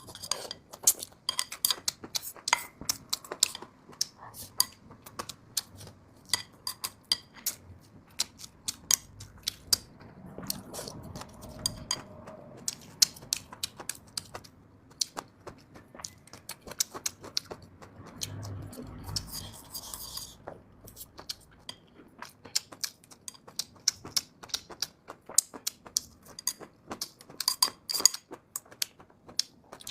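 Close-miked eating: many sharp clicks of utensils against dishes mixed with the chewing and crunching of food.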